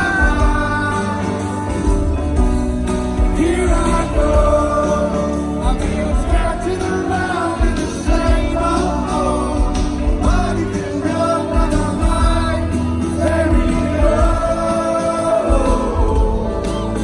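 A live band playing a song, with a male lead singer over the band and bass.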